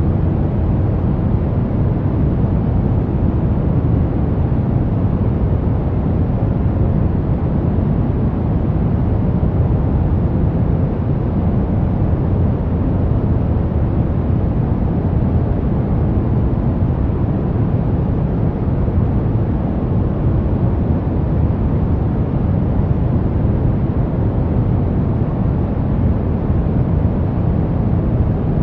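Brown noise: a steady, deep hiss weighted toward the low end, with no tones or changes.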